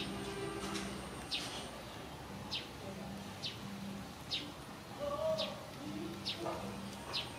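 A small bird chirping over and over: a short, high, falling chirp about once a second, with a low on-and-off tone underneath.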